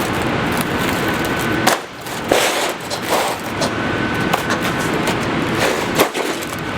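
Aluminium sheet metal being bent by hand around a pipe lever, rattling, with several sharp metallic knocks standing out.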